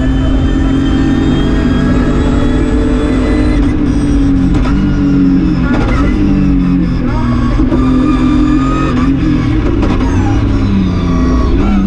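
BMW E36 M3 rally car's straight-six engine heard from inside the cabin, running hard under load. Its pitch holds steady at first, then dips and climbs again several times with lifts and gear changes through the middle and near the end.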